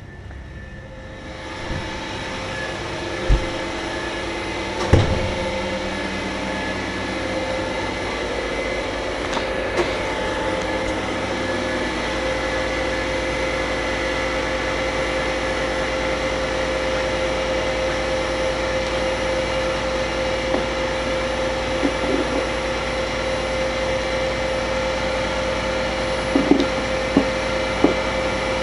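Kärcher MV 6 P Premium wet-and-dry vacuum cleaner starting up about a second and a half in and then running steadily with a steady hum, with a couple of sharp knocks a few seconds in and small clicks near the end.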